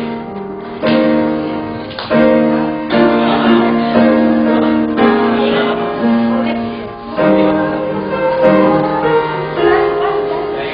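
Piano playing slow sustained chords, a new chord struck about once a second, as praise-song accompaniment.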